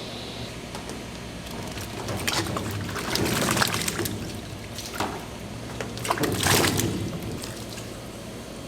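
Water sloshing and splashing over a steady machine hum, with two louder splashy surges and a few knocks, about three seconds in and again near six and a half seconds.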